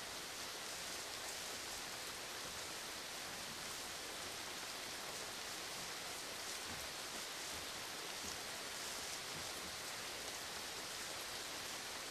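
Steady rain falling: an even hiss, strongest in the upper range, with the fine patter of individual drops.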